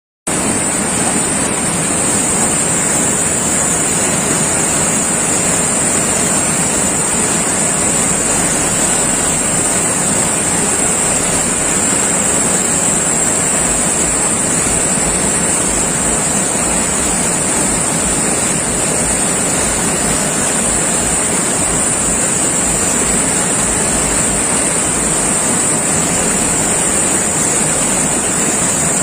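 Floodwater rushing in heavy rain: a loud, steady, unbroken noise of water with a strong high hiss.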